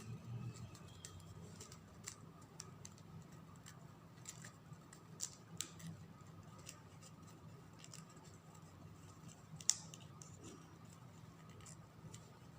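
Faint rustling and scattered soft clicks of satin ribbon being handled, threaded through a woven slot and pulled, over a steady low hum. One sharper click comes about ten seconds in.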